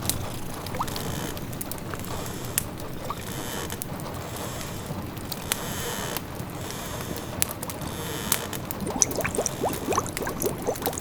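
Layered cosy-cottage ambience: a wood fire crackling with scattered sharp pops over a steady rain hiss, and from about eight seconds in a pot of food simmering, its bubbles popping in quick rising blips.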